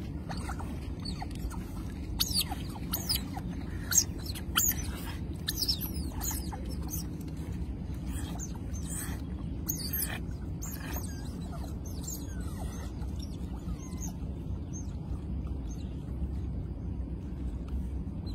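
Small birds chirping: rapid high chirps and twitters, busiest in the first half and sparser later, over a steady low rumble.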